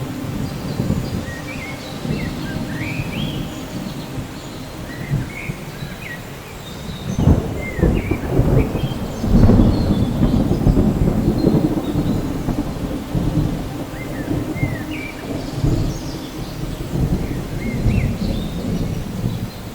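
Steady rain during a thunderstorm, with thunder rumbling throughout: a sharp crack about seven seconds in, then the loudest, longest roll of thunder from about nine seconds in that slowly fades. Short high chirps sound now and then above the rain.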